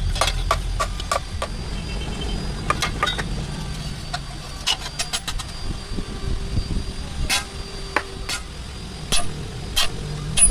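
Irregular sharp metallic knocks and taps of tools on iron, some in quick clusters of a few strokes, over a steady low mechanical rumble.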